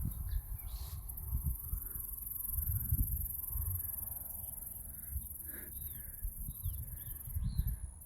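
Footsteps and handling bumps of a person walking on an outdoor path, with a few faint bird chirps in the second half.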